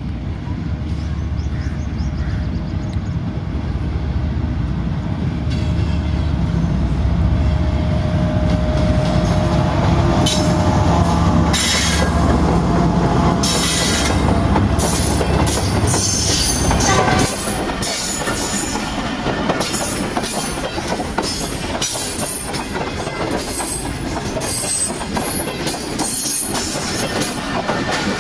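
Passenger train passing slowly over rough, badly kept track. A diesel locomotive's deep engine rumble fills the first half and falls away at about 17 seconds. It leaves the coaches' wheels clattering and clicking over the rail joints with intermittent wheel squeal.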